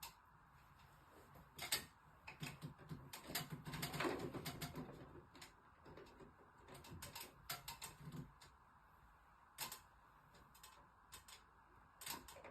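Irregular light clicks and knocks, busiest in two stretches early on and around the middle, with a few single clicks later, over a faint steady hiss.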